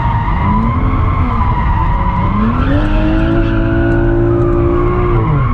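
BMW 335i's turbocharged 3.0-litre straight-six engine, heard from inside the cabin, held at high revs while the rear tyres skid and squeal in a drift on a welded differential. The revs climb about two seconds in, hold steady, and drop near the end.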